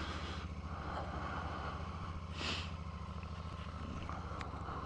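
Royal Enfield 650 parallel-twin motorcycle engine running steadily at low revs as the bike pulls away slowly, with a short hiss about halfway through.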